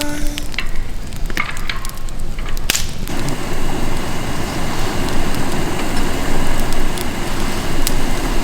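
Wood campfire crackling, with scattered sharp pops for the first few seconds, then a denser, steady crackling hiss from about three seconds in.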